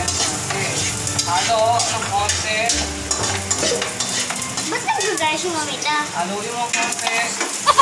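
Food sizzling in oil in a hot wok, with a wooden spatula scraping and tapping as pieces of food are pushed off a plastic plate into the pan.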